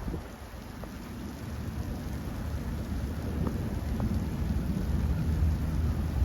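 Rain falling with a low rumble of thunder that builds slowly after a brief dip at the start.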